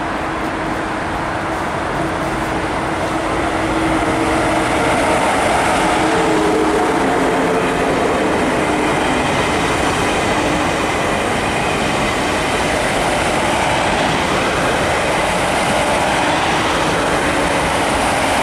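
ICE 2 high-speed train, two sets coupled, running through the station close by: a steady rolling rush of wheels on rail that grows louder about four seconds in. Faint humming tones shift in pitch underneath.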